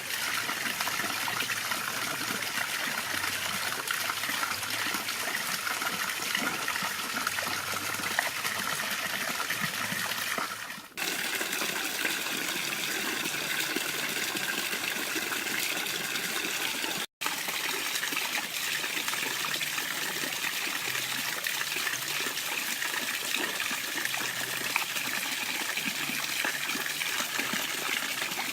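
Water pouring steadily over a home-built waterfall, a constant splashing rush that breaks off for an instant twice.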